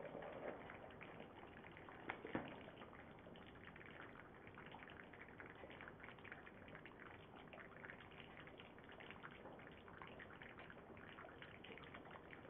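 Faint, steady crackle of smothered-chicken gravy simmering in a skillet, with a couple of slightly louder ticks in the first few seconds.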